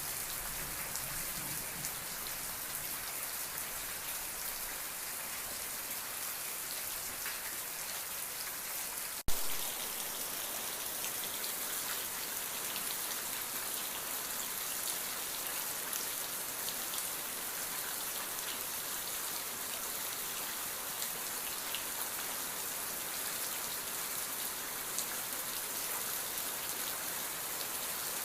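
Steady rain falling: a dense, even hiss with scattered faint drop ticks. There is a single sharp click about nine seconds in.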